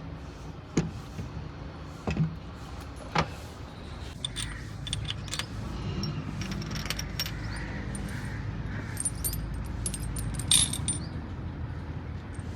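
Metal tools and parts clinking and knocking as they are handled: a few sharp knocks early, then a run of light metallic clinks, loudest about ten seconds in. A low steady rumble runs underneath.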